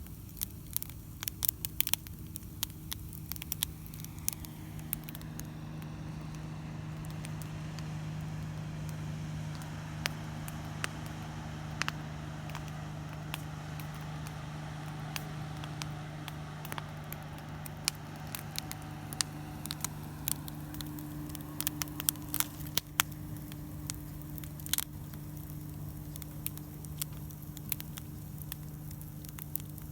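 Wood campfire crackling, with frequent irregular sharp pops and snaps, over a steady low hum.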